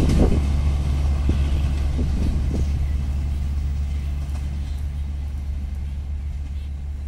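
Rumble of a passenger train moving away down the track, fading steadily, with a few faint wheel clacks over rail joints in the first few seconds.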